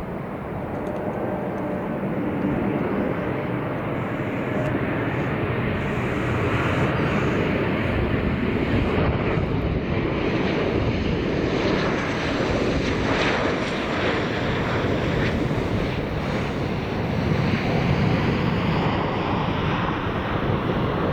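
Airliner engines heard at close range as an aircraft moves on or over the runway: a dense, steady engine noise that builds over the first few seconds, with a high whine that falls in pitch near the end as it passes.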